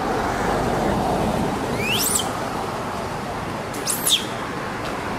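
Two quick, high-pitched bird calls about two seconds apart, the second louder and sweeping up then back down in pitch, over a steady rushing background.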